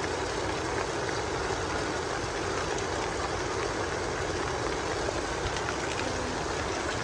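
Heavy rain falling steadily, a continuous even hiss and patter with no breaks.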